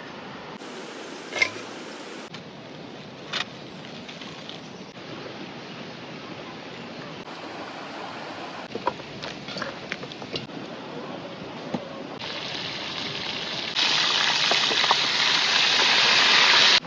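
Running water hissing, broken into short segments by abrupt cuts, with scattered clicks and snaps in the middle. A much louder, dense hiss fills the last three seconds and stops suddenly.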